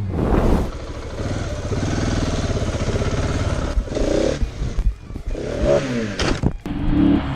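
Motorcycle engine running under way, with a few short louder pitched sounds in the second half.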